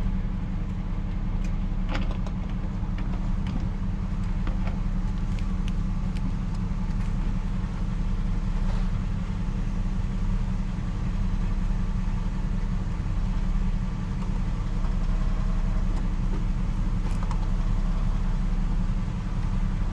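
Steady low drone of a vehicle's engine and road noise, with a few light ticks and rattles.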